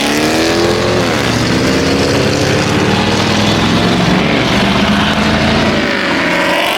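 Car engine revving hard at high rpm: the pitch climbs in the first second, drops back, holds high for several seconds, then climbs again near the end.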